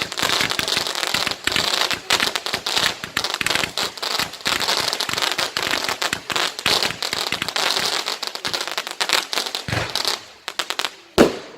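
Fireworks crackling in a dense, continuous barrage of rapid pops and crackles. The barrage dies away about ten seconds in, and one loud bang follows near the end.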